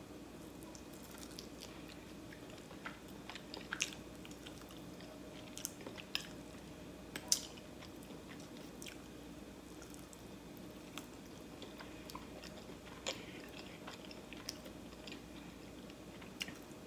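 Eating a sauced buffalo chicken wing: faint chewing with scattered short wet smacks and clicks, the loudest about seven seconds in.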